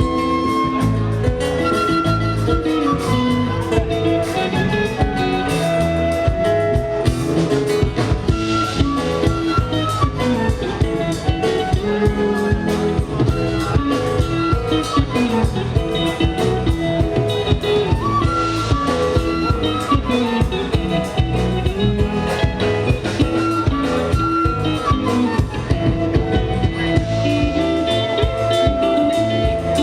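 A band playing live, with guitar over drums, a busy melodic line and a steady beat.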